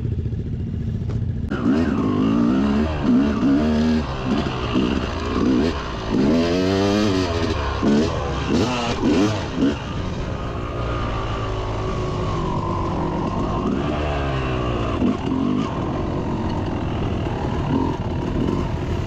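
Dirt bike engine: idling briefly, then revved up and down over and over, its pitch rising and falling, before settling into steadier running with slow changes in pitch.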